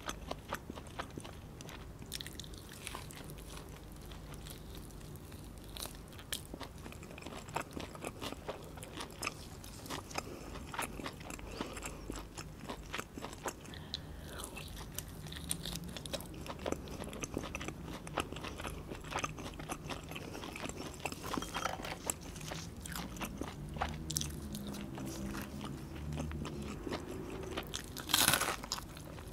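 Close-miked eating of grilled chicken: chewing and biting with many small wet mouth clicks. There is a louder crunchy bite near the end.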